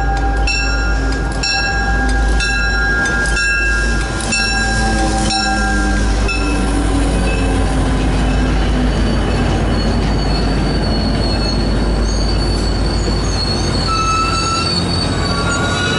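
MBTA commuter rail train passing close by, led by a diesel locomotive. A bell rings about once a second for the first six seconds while the engine comes up and goes past with a falling drone. Then the coaches roll by with a steady rush and a high wheel squeal.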